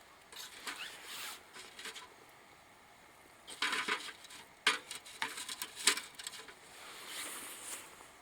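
Irregular rustling with a few sharp crackles and clicks, clustered from about three and a half to six seconds in.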